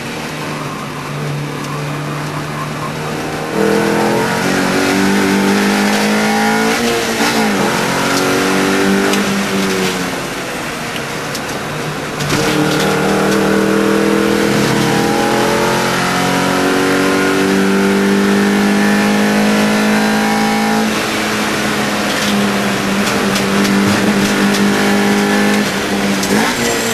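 Mini Challenge Cooper race car's 1.6-litre four-cylinder engine at racing speed, its pitch climbing in long pulls under hard acceleration and dropping sharply three times as the driver shifts or lifts off for corners.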